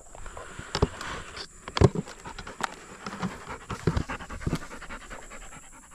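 Hunting dog panting after a retrieve, with a few short knocks and rustles.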